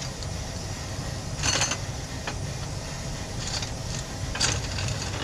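Metal clinks and short rattles from a drive chain being worked back onto the rear sprocket by hand: a sharp clatter about a second and a half in, then two lighter ones, over a steady low hum.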